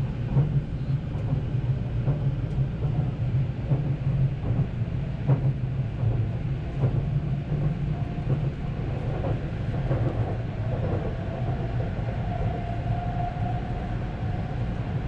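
JR limited express Haruka train running at speed, heard from inside the passenger car: a steady low rumble of wheels on track with scattered faint knocks, and a faint high whine that comes in about eight seconds in.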